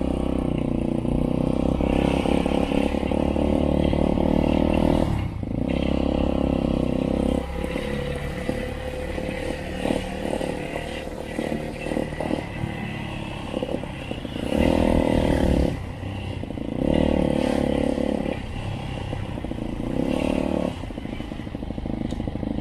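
Motorcycle engine running under way, its pitch holding steady in stretches and dropping off and picking up again several times in the second half.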